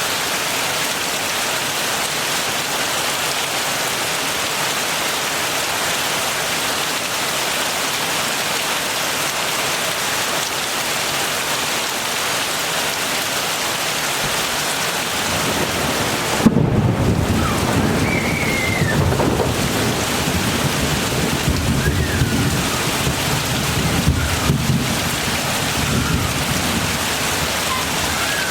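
Heavy rain falling steadily. Just past the halfway point a sudden crack of thunder sets off a low rolling rumble that goes on for about ten seconds, with a few louder peaks, before it fades back under the rain.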